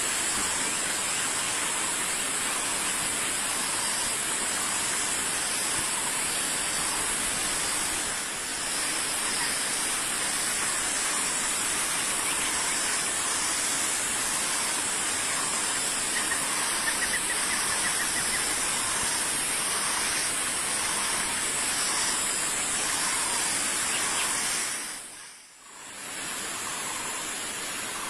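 Steady loud hiss with faint, evenly repeated bird calls beneath it and a brief fast trill about two-thirds of the way in. Near the end the sound drops away almost to nothing for about a second, then returns, as at an edit in the recording.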